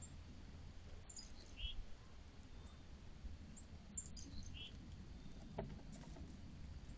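Faint outdoor ambience with a few scattered short, high bird chirps over a low, steady background rumble, and a single small click about two-thirds of the way through.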